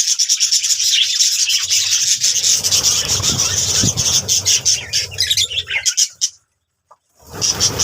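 Budgerigars chattering and warbling in quick, dense chirps, with a low rubbing, scraping noise underneath from about two seconds in. Everything breaks off for about a second shortly after six seconds, then the chirping resumes.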